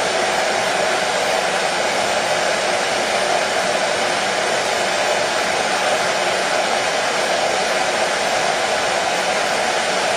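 Hair dryer running steadily: a constant airy rush, strongest in a band in the low middle, with no change in pitch or level.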